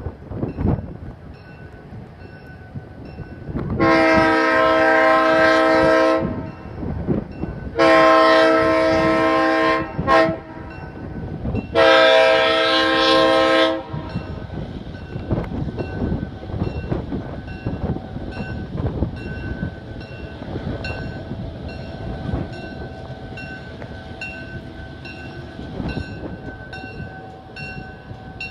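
Diesel locomotive's multi-chime air horn sounding long, long, short, long, the standard signal for a grade crossing, followed by the train rolling by with evenly spaced wheel clicks over the rail joints.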